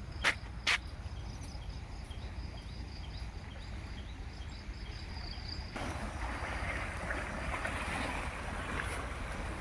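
Low wind rumble on the microphone with two sharp clicks near the start; about six seconds in, a steady rushing of flowing floodwater comes in and holds.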